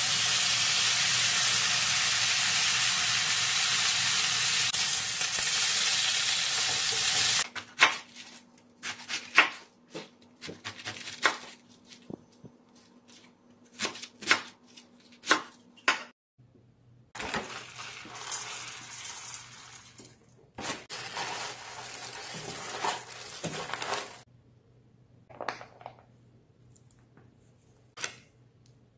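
Thin-sliced pork belly sizzling loudly in a frying pan for about seven seconds, then a large knife cutting napa cabbage on a wooden board in a run of separate sharp chops. A quieter steady hiss follows, and a few short handling sounds come near the end.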